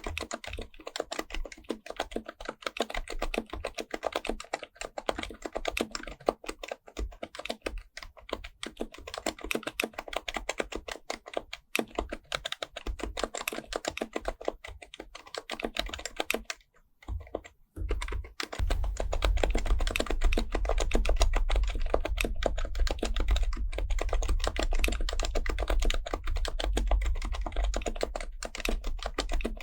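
Steady, fast typing on an HHKB Pro Type-S keyboard's silenced Topre capacitive keys, a dense run of soft key strokes. The typing stops briefly about three-quarters of the way through, then resumes with a louder low rumble underneath.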